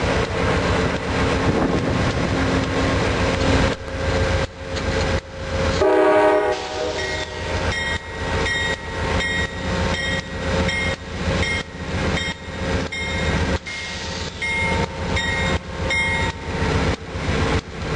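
Bilevel passenger cars rolling past with heavy wheel and rail noise. About six seconds in, a GE P42DC locomotive sounds a short horn blast, then its bell rings steadily, about two strokes a second.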